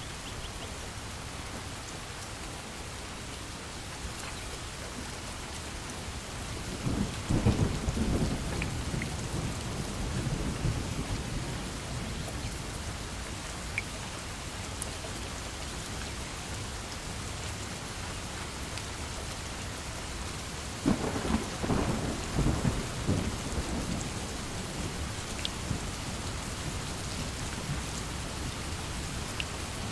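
Steady heavy rain with two rolls of thunder, the first about a quarter of the way in and the second about two-thirds of the way in, each a few seconds of rumbling.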